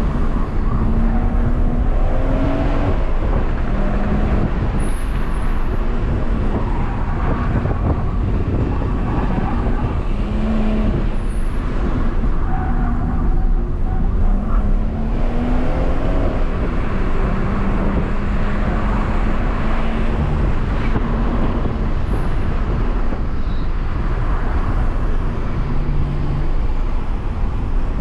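BMW M140i's turbocharged 3.0-litre straight-six heard from inside the cabin, pulling and easing off through the bends, its note rising and falling with the revs over steady tyre and road noise.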